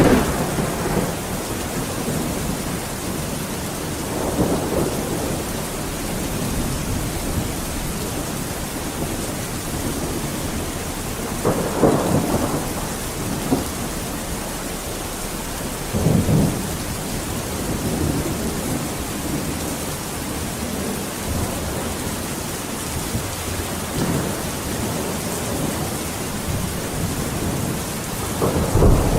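Steady heavy rain with rolls of thunder rumbling several times, the loudest about twelve and sixteen seconds in and again near the end.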